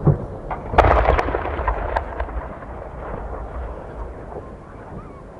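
Aerial fireworks: a short thump at the start, then a louder bang a little under a second in, followed by a quick run of sharp crackling pops and a low rumbling echo that fades away.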